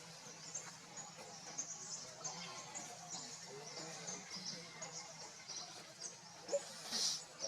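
Many short, high-pitched chirps repeating, from small animals, with a louder burst near the end.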